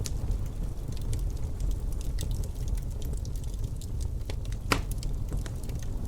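Wood fire crackling in a fireplace: irregular sharp pops and snaps, one louder pop near the end, over a steady low rumble.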